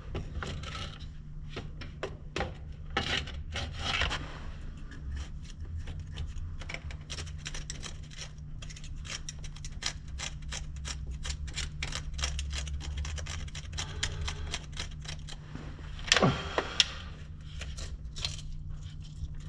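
Rapid, light metallic clicking and jangling, like hand tools or hardware being handled, over a steady low hum, with one louder brief clatter about 16 seconds in.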